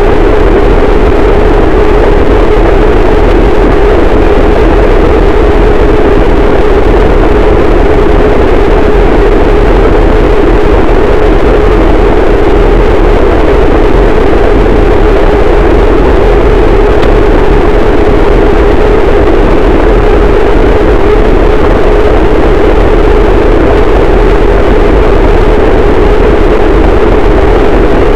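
Harsh noise wall: a loud, unchanging wall of distorted static noise with a heavy band around the low midrange and a deep rumble beneath, no rhythm and no change.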